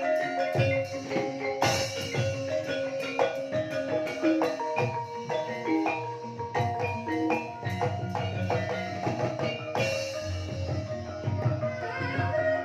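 Banyumasan gamelan ensemble playing an ebeg-style gending: interlocking struck mallet-instrument melodies over a low drum part, with two louder crashing strokes about two seconds in and near ten seconds.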